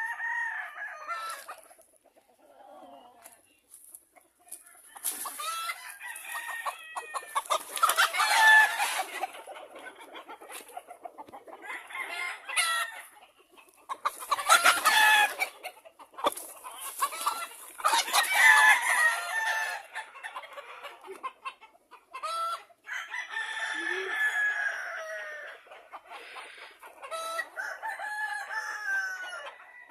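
Roosters crowing again and again, long pitched calls that often overlap one another, with quieter clucking in the gaps between.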